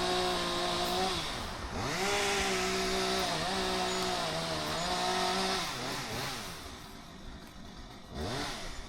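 Chainsaw running at high revs. Its note dips and picks back up twice, then it eases off after about five and a half seconds and is revved up twice more near the end.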